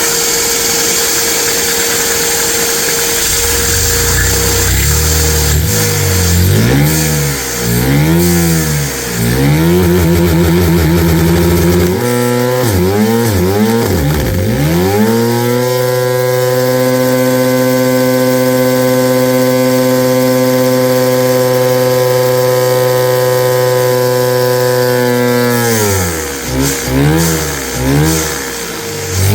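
Vacuum-powered LEGO engine with 3D-printed parts and a big flywheel, run on vacuum suction and revving high. Its pitch surges up and down over and over, holds steady for about ten seconds in the middle, then wavers again near the end.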